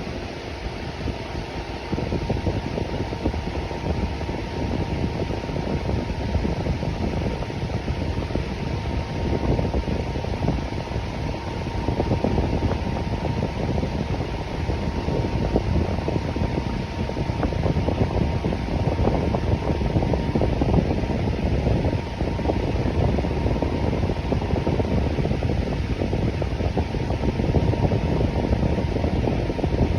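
Electric fan running steadily: a constant airy whoosh, deepest in the low range, with a faint steady hum.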